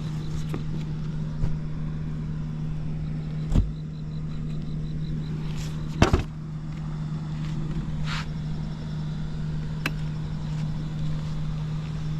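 Honda Squash moped engine idling steadily and quietly with no abnormal engine noise. Two sharp knocks land about three and a half and six seconds in.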